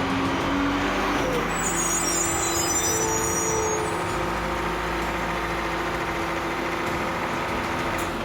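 Heavy truck engine running steadily under load, with a brief high-pitched squeal, such as brakes or an air-brake release, about two seconds in.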